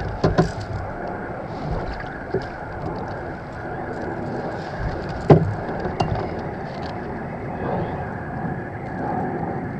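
Rustling and handling noise as a chain pickerel is held and unhooked in a kayak, with a few sharp knocks against the hull, the loudest about five seconds in, over a steady background noise.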